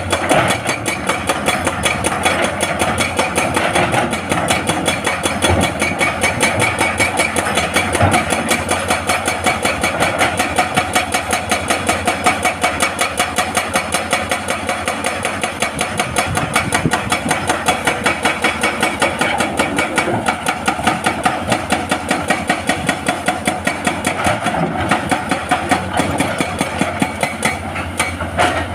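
Excavator-mounted hydraulic breaker hammering a large rock in a rapid, steady string of blows, with the excavator's diesel engine running under load.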